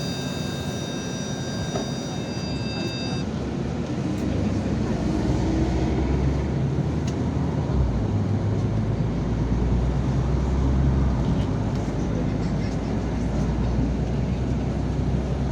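Yutong ZK6128HG city bus heard from inside, pulling away and accelerating, its engine note building strongly from about four seconds in, with short dips near eight and eleven seconds that sound like gear changes. A steady electronic tone sounds in the first three seconds, then stops.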